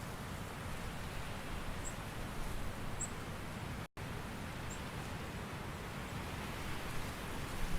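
Autumn forest ambience: a steady soft hiss of outdoor noise, with a few faint, very high chirps. The sound cuts out to silence for an instant about four seconds in.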